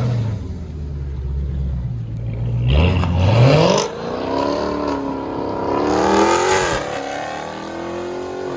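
Dodge Hellcat's supercharged 6.2L Hemi V8 through a straight-pipe exhaust, pulling away gently: a steady low rumble, then the revs climb, drop at an upshift about four seconds in, climb again and drop at a second upshift near seven seconds before settling.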